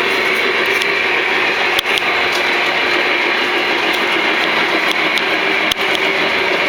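O scale model train running on the FasTrack layout: a steady running hum and hiss, with two sharp clicks, about two seconds in and near the end.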